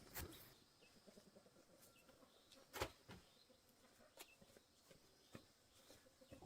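Faint, scattered taps and knocks, with one sharper knock nearly three seconds in.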